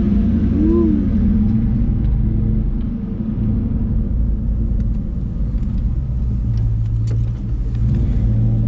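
1997 Ford Mustang GT's V8 engine running steadily as the car is driven, with a deep exhaust rumble.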